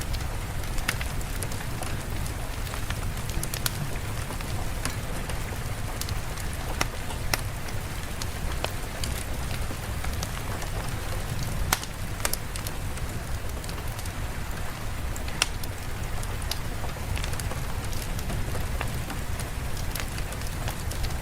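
Steady rain falling: an even hiss with a low rumble beneath it, dotted throughout with scattered sharp ticks and pops.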